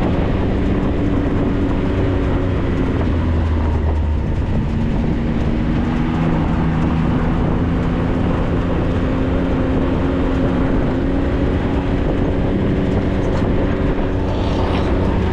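Maverick 4x4 running steadily on the move: a constant engine hum over a continuous rumble from the drive.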